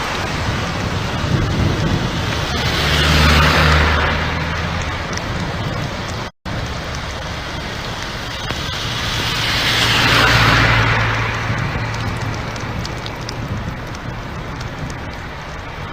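Heavy rain pouring, with vehicles passing twice on a wet road, each pass a swell of tyre spray and engine hum. The sound drops out for an instant about six seconds in.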